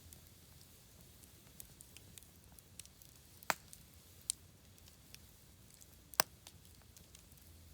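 Wood campfire burning, crackling with scattered small ticks over a faint steady hiss, and two sharp louder pops about three and a half and six seconds in.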